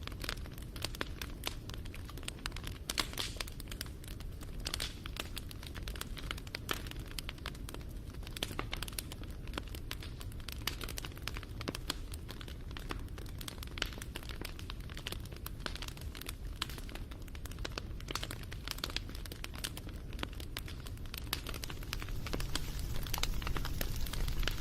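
Wood fire crackling: a dense, irregular run of sharp pops and snaps over a low rumble of burning, the rumble growing louder near the end.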